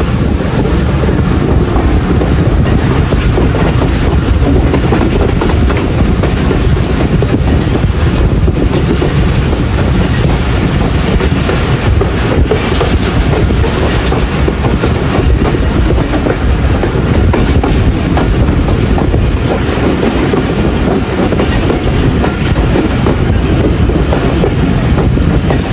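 Moving passenger train running along the track, a loud, steady rumble and rattle of wheels on rails.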